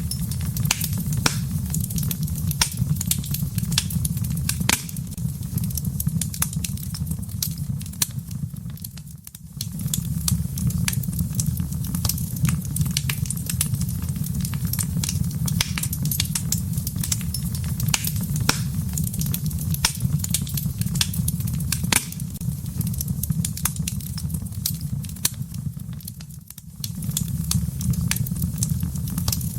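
Wood fire burning in a fireplace: a steady low roar of flames with frequent sharp crackles and pops from the burning wood. The roar briefly fades twice, about nine seconds in and a few seconds before the end.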